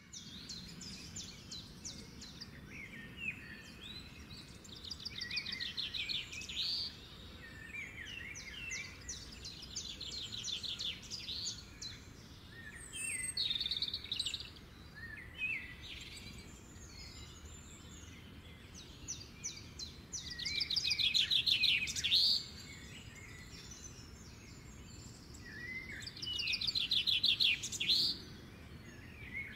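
Several songbirds singing and chirping, with bursts of rapid trills every few seconds over faint steady background noise.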